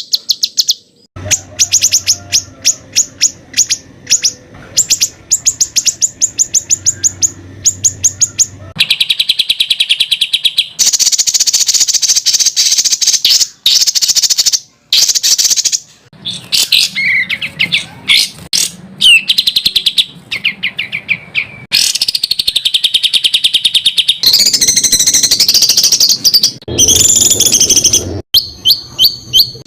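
Recorded songbird song of the kind used to tutor competition birds: dense runs of sharp, rapidly repeated notes and fast trills (the 'tembakan' shot-like phrases), with some gliding whistles. The song changes abruptly every several seconds, as spliced segments.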